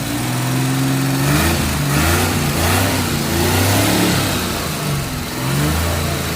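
Kei truck's newly installed small engine running: a steady idle, then revved up and down in several quick blips from about a second in. Only a small idle adjustment is still needed, by the owner's account.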